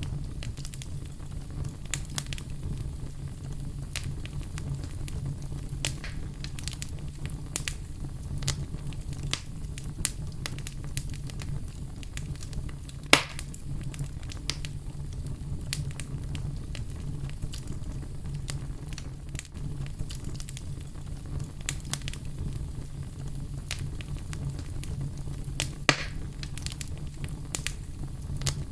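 Wood fire burning with irregular crackles and pops over a steady low rumble of flame, with two louder pops, one near the middle and one near the end.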